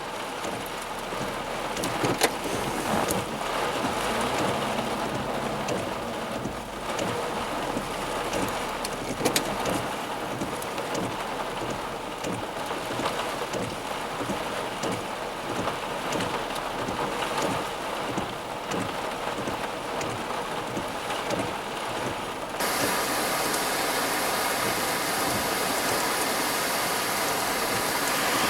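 Heavy thunderstorm rain falling and hitting surfaces, with scattered sharper drop impacts. About 23 seconds in, the sound shifts to a denser, steadier hiss.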